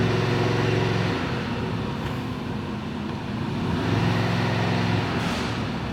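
A motor vehicle engine humming steadily. It is louder for the first second and again around four to five seconds in.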